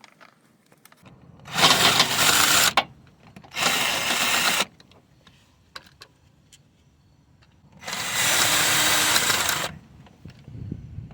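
A cordless power tool, most like an impact wrench, runs in three short bursts, the last the longest.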